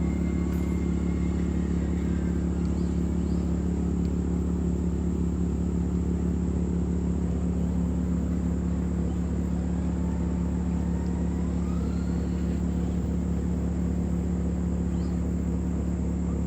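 A steady low mechanical hum holds one pitch throughout, with faint whines rising and falling in pitch now and then behind it.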